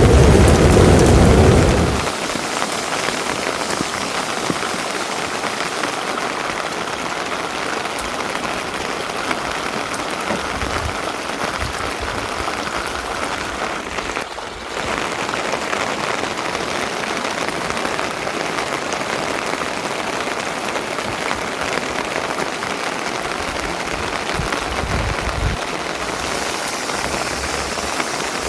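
Steady rain falling, an even hiss, after a loud low rumble that stops about two seconds in.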